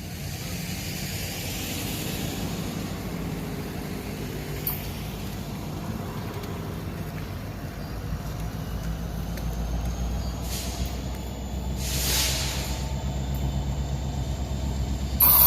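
Diesel freight locomotive rumbling as a train approaches, its engine growing louder about halfway through, with a few short bursts of hiss near the end.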